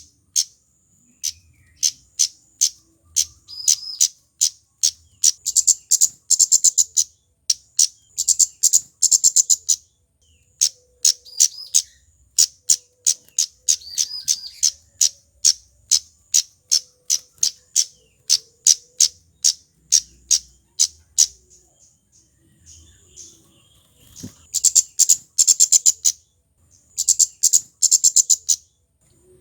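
A male kemade, a small flowerpecker, calling sharp, very high 'cit' chips over and over, often run together into fast ticking trills. After a short lull late on, the trills come in dense bursts.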